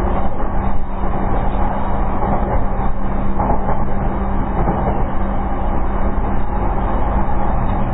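JR East E233 series electric train running on the rails, heard from inside the car: a steady rumble of wheel and track noise with a constant low hum underneath.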